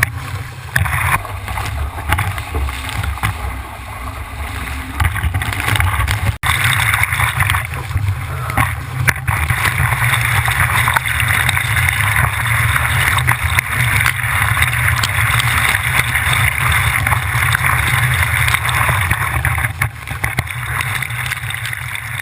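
Water rushing and splashing along a Laser sailing dinghy's hull, with wind buffeting a GoPro's microphone as a steady low rumble. The sound drops out briefly about six seconds in.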